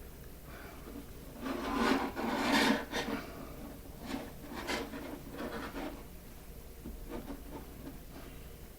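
Rubbing and scraping strokes of hands and tools working pie dough over the rim of a crock. Two long, louder scrapes come in the first few seconds, then a run of shorter, fainter ones.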